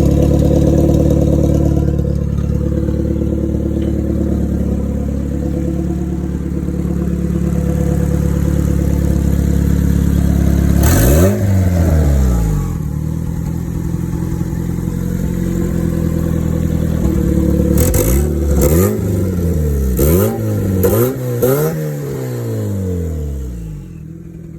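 Turbocharged 1995 Honda Civic engine, straight-piped out the front fender, idling steadily. It is revved once sharply about halfway through and falls back to idle, then blipped quickly about five times in a row before settling back to idle near the end.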